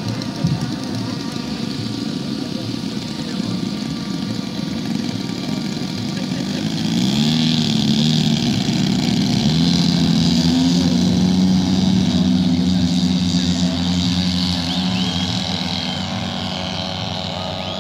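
Radio-controlled model airplane engine running continuously; about seven seconds in it grows louder as a plane passes close, its pitch rising and falling, then it slowly fades.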